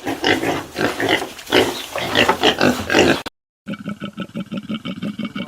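Pigs squealing and grunting in a burst of loud, rough calls for about three seconds. After a short gap, a different animal call begins: an even, rhythmic pulsing at about five pulses a second.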